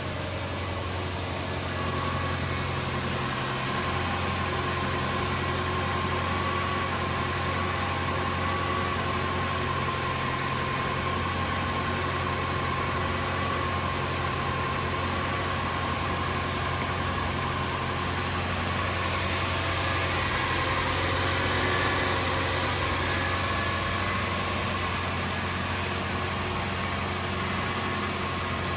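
A 2005 Lexus LS430's 4.3-litre V8 idling steadily on a cold start, with a steady low hum and no revving.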